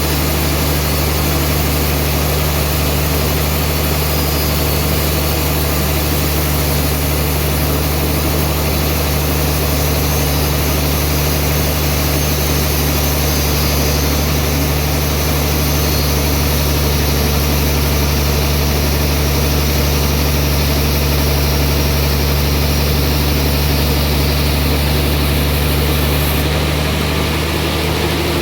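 Band sawmill running steadily: a constant low drone with an even noise over it, slightly less bright near the end.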